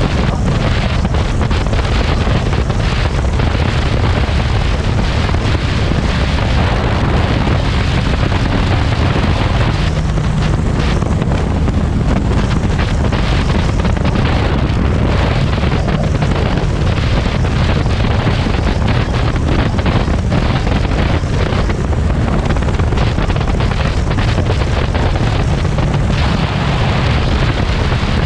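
Heavy wind buffeting on the microphone of a moving motorcycle, over the low, steady rumble of a Harley-Davidson Street 500's V-twin engine and aftermarket TAB Performance exhaust cruising.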